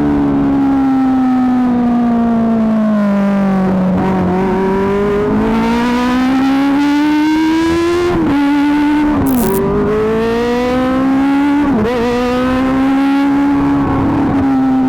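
Kawasaki ZX-25R's 250 cc inline-four running through an Akrapovic GP exhaust. Its pitch falls slowly over the first few seconds, then climbs, with two quick drops in pitch about eight and twelve seconds in, each followed by a rise again.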